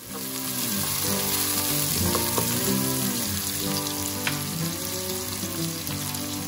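Chopped onions and garlic sizzling in hot oil in a nonstick pot. The sizzle comes in suddenly and loud at the start, then runs on steadily.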